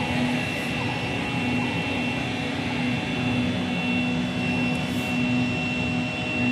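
Steady outdoor ambient rumble with a thin, steady high-pitched tone over it.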